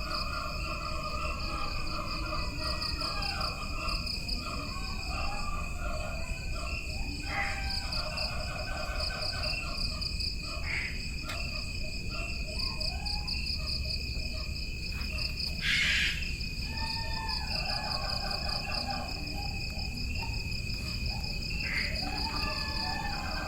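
Tropical jungle ambience dominated by a steady chorus of chirring insects, one high continuous tone with a faster pulsing band above it. Lower trilling animal calls come and go over it, with a short, louder rasping call about two-thirds of the way through.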